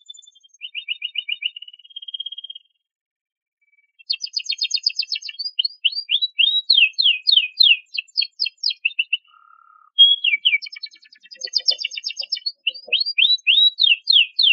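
Domestic canary singing: fast trilled phrases of repeated notes, with a short pause between about two and four seconds in, then long runs of rapid down-slurred whistles repeated several times a second.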